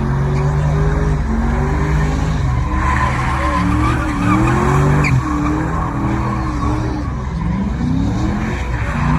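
A car engine revving up and down over and over while its tyres squeal and skid, the car being spun hard.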